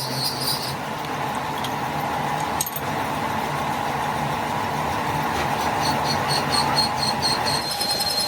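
Factory machinery running with a steady, loud mechanical din. Partway through, a quick run of high metallic ticks comes in, about five a second.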